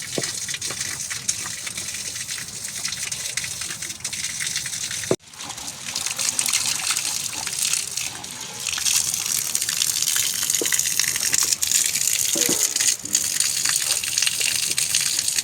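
Steady rushing water with a gushing hiss. It breaks off abruptly about five seconds in, starts again, and gets louder from about nine seconds.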